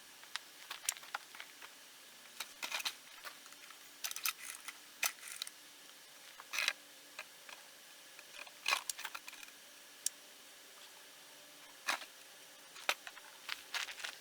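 Irregular small clicks and light knocks of objects being handled, a dozen or so spread unevenly, over a faint steady hum.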